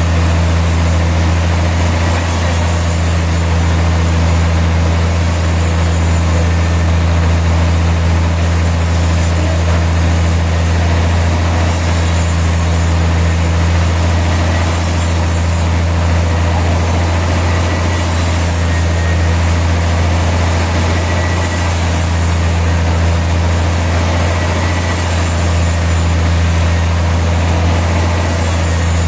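Sawmill machinery running with a steady, unchanging low drone and hum, with no cutting strokes or breaks.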